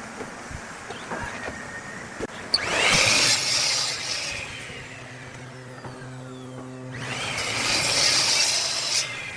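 A power tool cutting into wood twice, each cut about two seconds long and loud, with the motor humming steadily between cuts.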